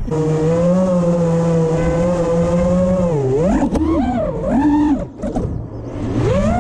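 FPV freestyle quadcopter's brushless motors whining: a steady pitch for about three seconds, then swooping up and down with the throttle, briefly dropping away about five seconds in and spinning back up near the end.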